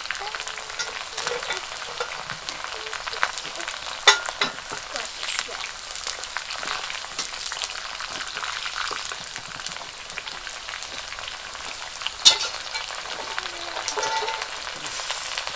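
Cauliflower frying in hot oil in a pot, a steady sizzle with many small crackles and spits. Two sharp clacks stand out, about four seconds in and again near the end.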